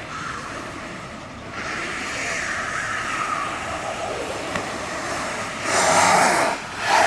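Snowboard sliding over snow, a steady scraping rush that grows about a second and a half in and surges twice near the end as the edge bites in turns.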